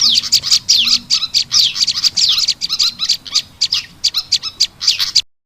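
Bird-lure recording of a prenjak lumut (prinia) combined with a kipasan ribut fantail: rapid, busy high chirps mixed with repeated quick down-slurred notes. It cuts off suddenly near the end.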